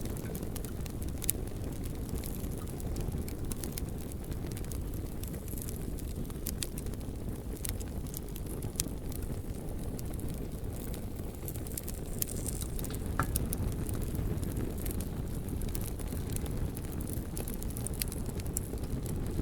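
Campfire crackling, with scattered sharp pops and ticks over a steady low rumble.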